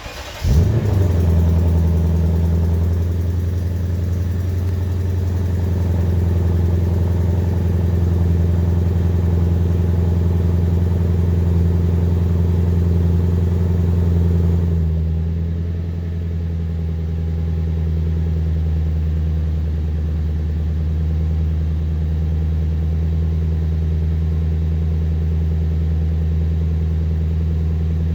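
V8 sports car engine starting up: it catches about half a second in with a brief loud flare, then settles into a steady raised idle. About 15 seconds in the idle steps down to a slightly lower, quieter steady idle.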